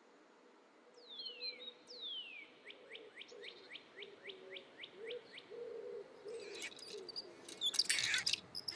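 Bird calls in a garden soundtrack: two falling whistles, then a quick run of short rising chirps at about three a second. A dense burst of clicking and rattling follows near the end.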